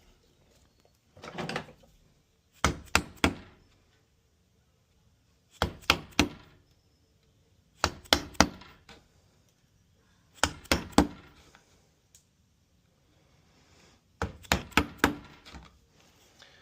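Hammer striking a wood chisel into a wooden door's edge in quick groups of three or four sharp taps, a few seconds apart: trimming a deadbolt recess a little deeper so the lock will fit.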